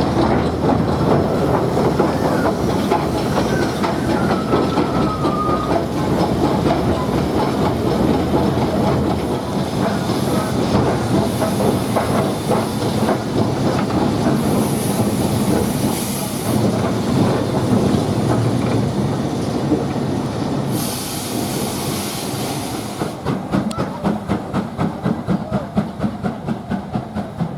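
Train running on the line, its wheels clattering over the rail joints, with three short spells of hiss in the middle. Near the end the clatter settles into even beats, about three a second, and grows fainter.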